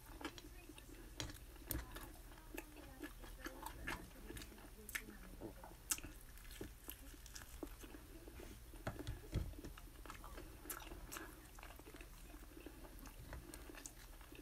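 A person chewing and biting into fried bacon and chicken wings, faint, with scattered small crunchy clicks and smacks.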